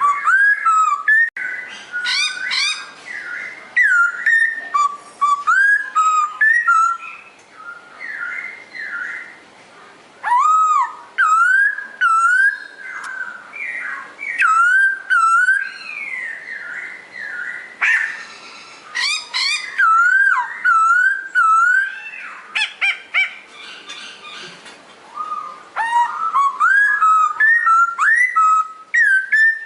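A songbird, the 'pokho', singing loud, clear whistled phrases of quick rising and falling notes. It sings in bursts several seconds long, with quieter gaps between them.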